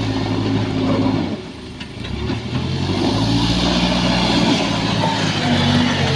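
Heavy diesel engine running under changing load: it drops away about a second in, then picks up again and climbs slightly.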